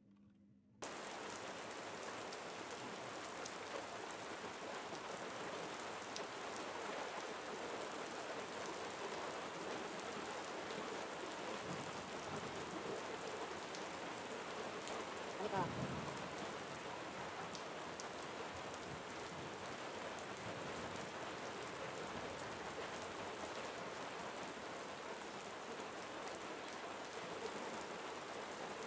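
Steady rain-like hiss that starts abruptly about a second in, with a short louder swish near the middle.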